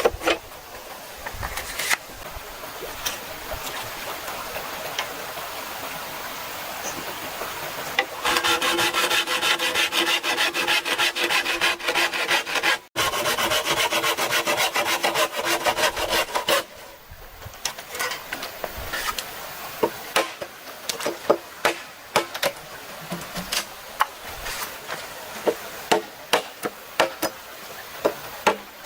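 Bamboo being worked with hand tools: steady sawing or scraping strokes, louder and ringing with a few steady tones in the middle, then a run of sharp taps and knocks on the bamboo.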